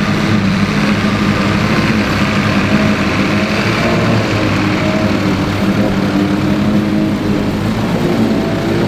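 A Ford 8630 tractor's diesel engine runs steadily under load while driving a Mengele SH40N forage harvester, with a constant mechanical rush over the engine note.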